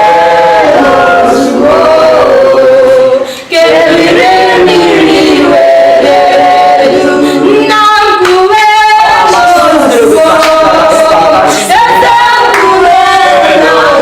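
A choir of men and women singing together, a melody of long held notes with a short break about three and a half seconds in.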